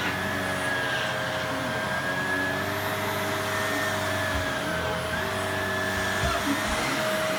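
Vacuum cleaner running steadily: an even rush of air under a constant motor hum, with a higher whine that wavers slightly in pitch.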